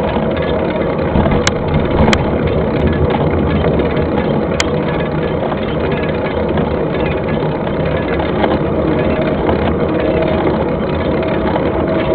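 Mountain bike riding over a dirt trail: a steady rumble and rattle of tyres and frame. Three sharp clicks or knocks come through, two close together about one and a half to two seconds in and one about four and a half seconds in.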